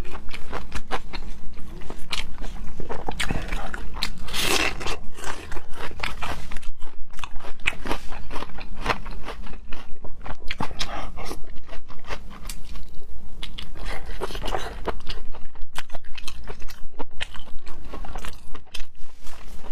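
Close-miked eating sounds: a person biting and chewing food in a steady run of quick wet clicks and smacks.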